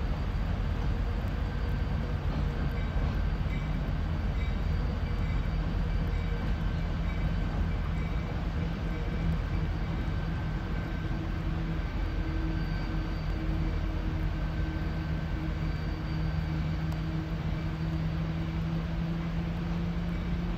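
Diesel locomotive hauling passenger cars across a bridge: a steady low engine drone over an even rumble, with no horn or sudden sounds.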